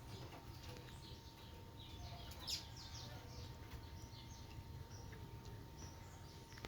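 Small wild birds chirping, many short high chirps in quick runs, with a sharp tick about two and a half seconds in, over a faint steady hum.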